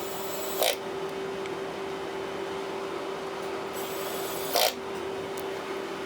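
Two brief scrapes of a small hand tool on the tablet's parts, about four seconds apart, over a steady electrical hum.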